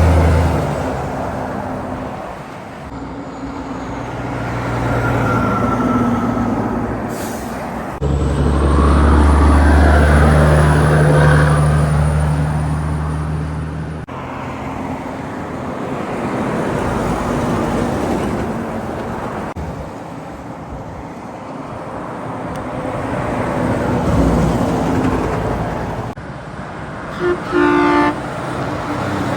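Trucks and other road traffic passing one after another, engines running and tyres on the road, each pass swelling and fading. Near the end a vehicle horn gives two short blasts.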